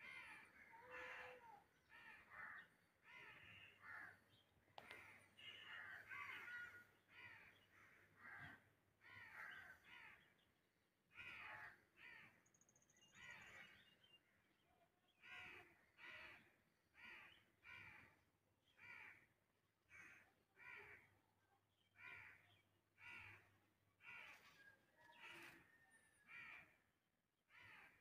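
Faint bird calls repeated over and over: a busy run of calls at first, settling to about one call a second from the middle on.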